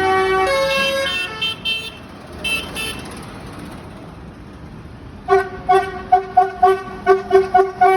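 Vehicle horns tooting: a few longer notes at changing pitch at first, then after a quieter stretch a rapid run of short toots at one pitch, about four or five a second.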